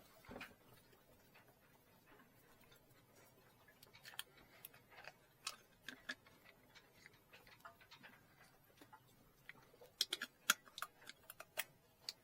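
Scattered light clicks and taps of handling, irregular and sparse at first, coming thicker near the end.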